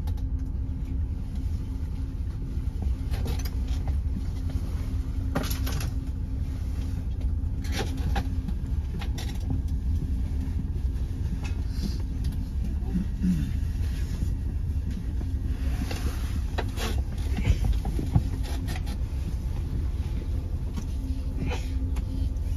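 Öresundståg electric train heard from inside the carriage while moving slowly: a steady low rumble with a constant hum, broken by scattered clicks and knocks every few seconds and a brief squeak a little past halfway.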